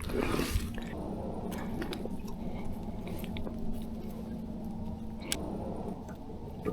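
A freshly landed crappie being handled in the boat: small scattered clicks and knocks over a steady low hum.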